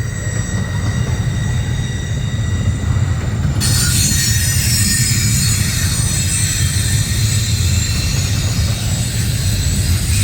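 Intermodal freight train cars rolling past close by: a steady low rumble of wheels on rail with high-pitched wheel squeal. About three and a half seconds in, a harsher high screech and hiss comes in and stays.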